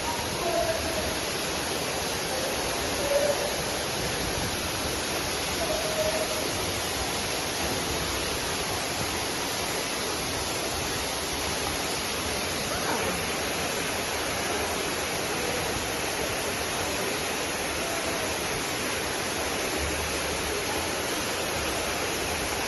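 Steady rush of water from a river waterfall.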